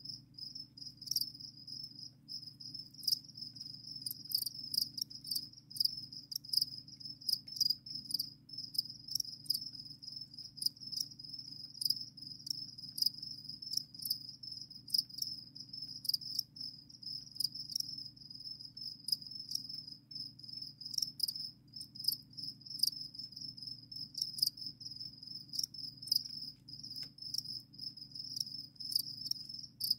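Crickets chirping without a break, a high shrill trill with many short sharp ticks over it.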